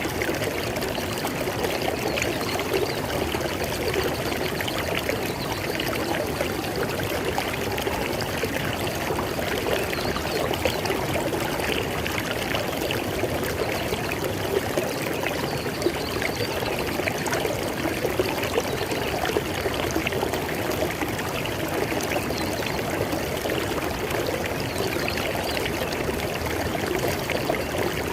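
River water flowing steadily over rocks, a constant rush with small splashes and gurgles.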